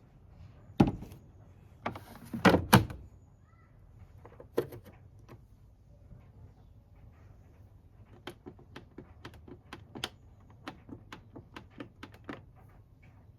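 Knocks and a thud as a front-loading washing machine's door is shut, followed by a run of light clicks, about three a second.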